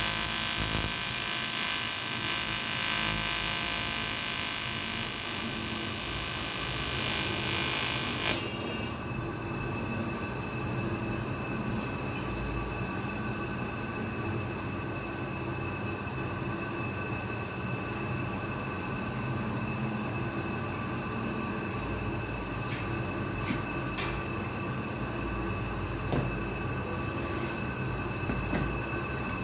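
TIG welding arc on an aluminium motorcycle cylinder block, a loud hissing buzz that cuts off suddenly about eight seconds in. After that a quieter steady machine hum remains, with a few faint clicks.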